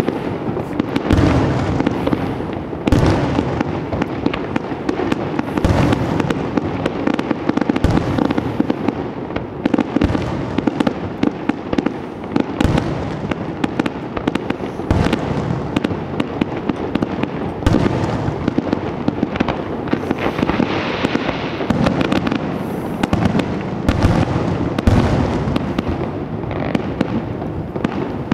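Dense, continuous barrage of aerial firework shells bursting: rapid, overlapping bangs with crackling between them.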